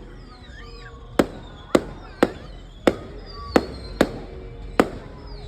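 Aerial fireworks going off in a quick run of about seven sharp bangs, roughly one every half second to three-quarters of a second, with high whistling glides of rising shells between them.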